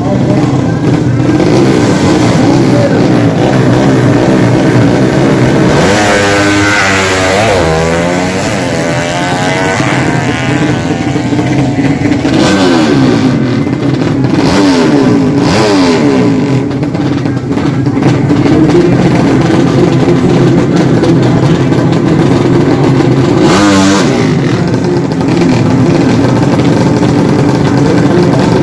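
Motorcycle drag-bike engines running loudly, with several quick revs whose pitch rises and falls.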